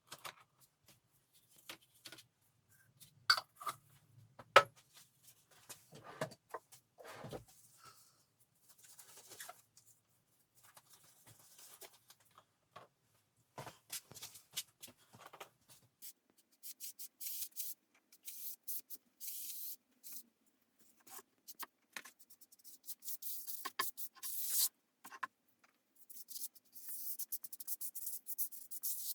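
Hand work on old wooden furniture: scattered taps and knocks, two of them sharp, then from about halfway a steady run of short scratchy strokes, as of scraping or sanding by hand.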